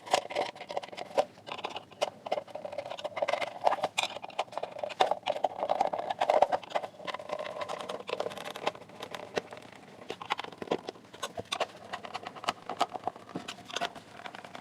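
Irregular clicks and knocks of a plastic speaker housing being handled and its cover fitted, with some scraping in the first half.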